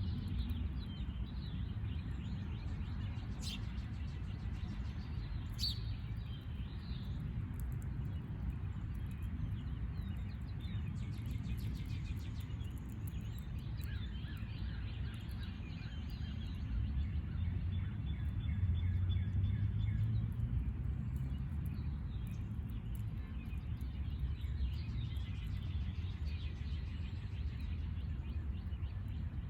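Small backyard birds chirping and twittering on and off, over a steady low rumble.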